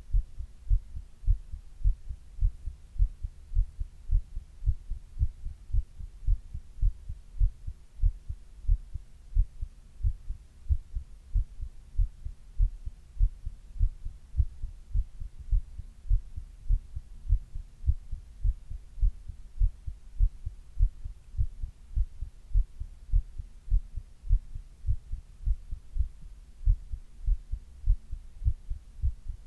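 A person's heartbeat heard close up: a steady, regular run of low double thumps, the lub-dub of the heart, recorded while she was running a 102°F fever.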